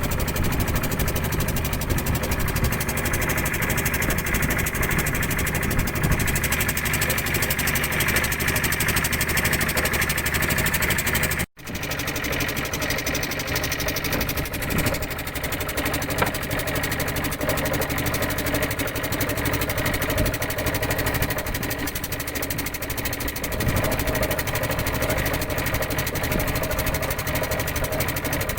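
Small fishing boat's engine running steadily, with a momentary break about eleven seconds in.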